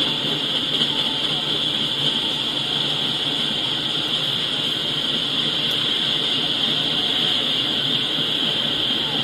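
Double-stack container freight train rolling past, a steady rumble of wheels on rail with a constant hiss, heard as the audio of a live train camera feed played through a speaker.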